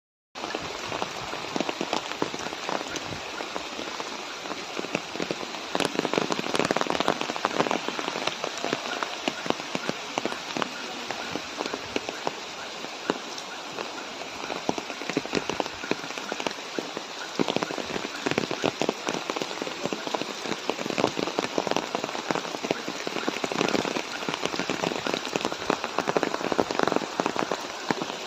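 Steady rain falling and pattering on hard surfaces, a dense hiss packed with fine drop impacts.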